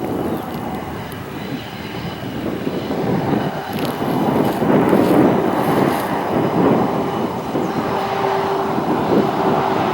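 Freight train hauled by Dash and SD40 diesel-electric locomotives running by with a continuous heavy rumble of engines and rolling wagons, growing a little louder about three seconds in. A faint steady tone comes in near the end.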